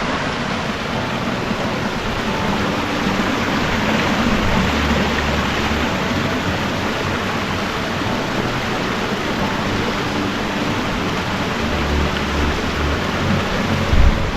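Waterfall splashing steadily into rock pools, a constant even rush of falling water.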